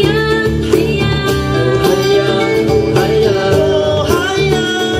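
A live band playing a pop song, with a voice singing a melody over the instruments and a steady beat.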